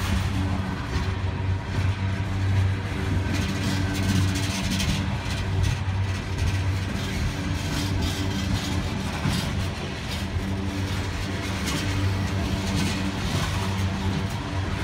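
Norfolk Southern freight train's diesel locomotives running with a steady low drone, over a constant haze of noise.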